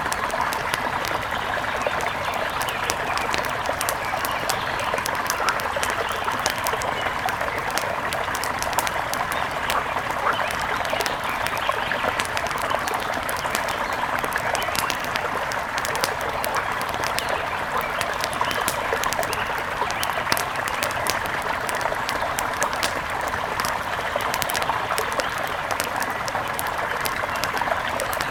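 Steady rush of a mountain river, with frequent sharp crackles and pops from a campfire over it.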